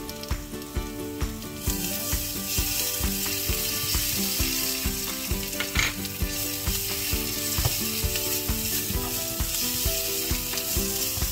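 Ground chili, shallot and garlic paste with sliced onion and garlic sizzling in hot oil in a frying pan, stirred with a spatula; the sizzle gets louder about two seconds in.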